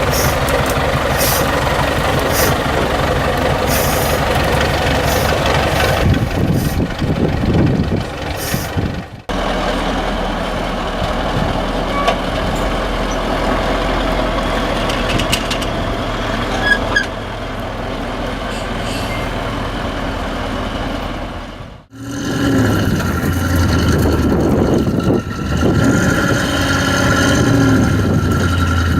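Heavy off-road trucks' engines running and revving, the pitch rising and falling, in three shots joined by abrupt cuts about 9 and 22 seconds in.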